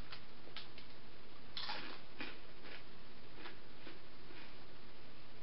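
A person eating a crunchy snack: a string of irregular crunches, the loudest about one and a half seconds in.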